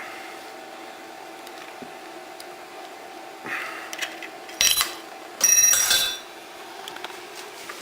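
Metal parts or tools clattering and clanking, with a sharp ringing clank and then a louder half-second metallic rattle, over a steady machine hum.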